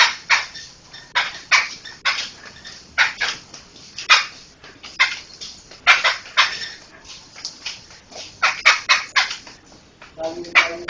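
Poksay (laughingthrush) calling: a run of short, harsh, rasping notes in irregular bursts of one to three a second. Near the end a lower, steadier pitched call joins in.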